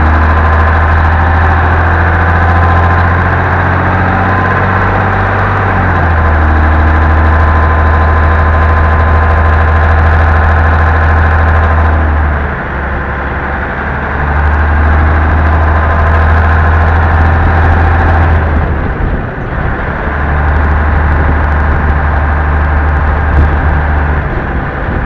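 M923A1 military 5-ton 6x6 truck driving, heard from inside the cab: its Cummins six-cylinder diesel engine running under load with a heavy low drone. The drone drops off briefly twice, about halfway through and again a few seconds later, then picks back up.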